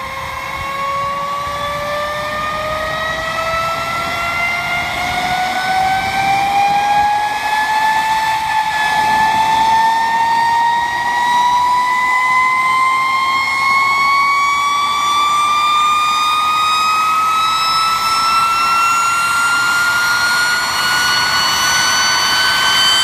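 Turbomeca Marboré turbojet of a Hispano HA-200 Saeta spooling up during engine start: a loud whine that rises steadily in pitch, pausing briefly partway through, over a rushing noise.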